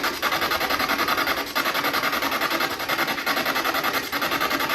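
Spirit box scanning through radio stations: a steady stream of choppy static hiss that pulses rapidly and evenly as it sweeps, with a few brief dropouts.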